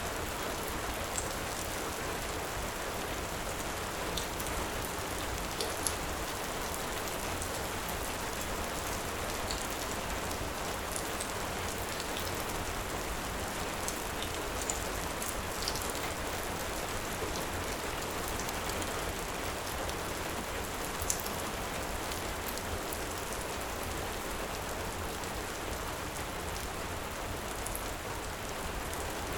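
Steady heavy rain hissing without a break, with scattered sharp pops and crackles from a wood fire every second or two.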